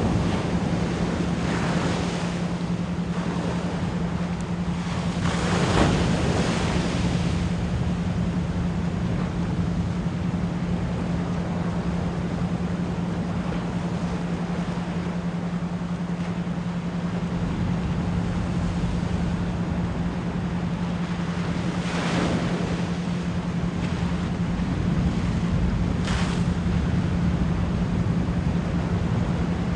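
Ocean waves washing in steadily, with a few louder breakers about 6, 22 and 26 seconds in, layered under a steady 174 Hz pure tone.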